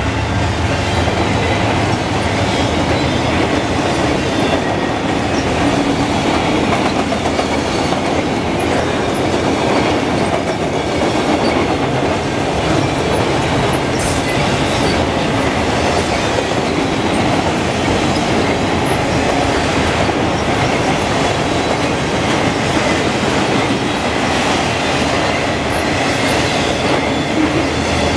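A freight train of auto rack cars rolling past close by: a steady, loud rumble and clatter of steel wheels on the rails, with a sharp metallic clank about halfway through.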